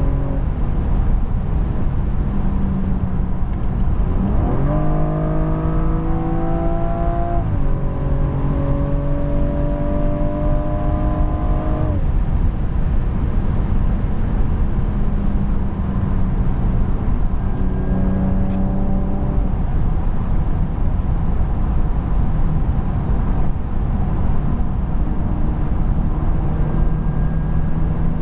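BMW M135i's turbocharged 3.0-litre straight-six heard from inside the cabin over steady road and wind noise. About four seconds in, a kickdown sends the revs jumping up and climbing, with a gear change about three seconds later, then climbing again until the driver lifts off; a second, shorter burst of acceleration comes about eighteen seconds in.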